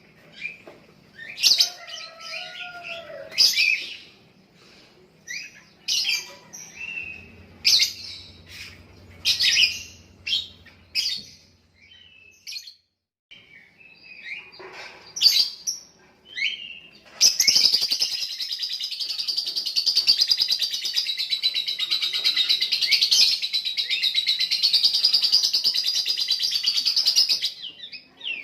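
Lovebird calling: sharp, separate high chirps, then a little over halfway through it breaks into a long unbroken rapid chatter lasting about ten seconds, the 'ngekek' song that lovebird keepers prize.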